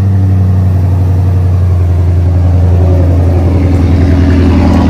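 Ford Mustang GT's 5.0-litre V8 idling, a steady low exhaust rumble.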